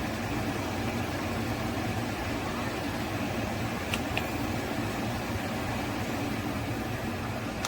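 Portable air conditioner running with a steady hum and blower noise, with two small clicks close together about four seconds in.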